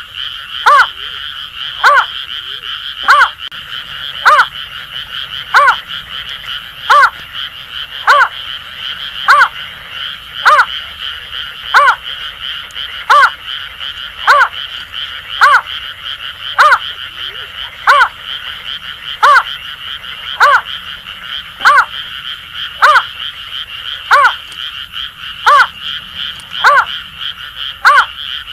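Greater painted-snipe giving its hooting call: short notes repeated evenly, about one every 1.2 seconds. Under it runs a steady chorus of Asian grass frogs calling in a high, rapid rattle.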